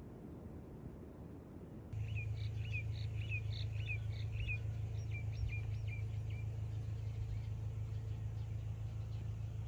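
From about two seconds in, a small bird gives a run of about five quick chirps roughly half a second apart, then a few shorter ones. A steady low rumble runs underneath.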